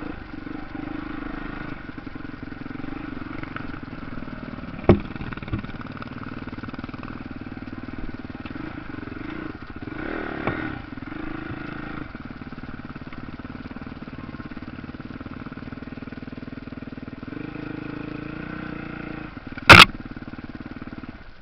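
Motocross motorcycle engines running steadily, with two sharp knocks about five seconds in and a loud, sharp knock near the end.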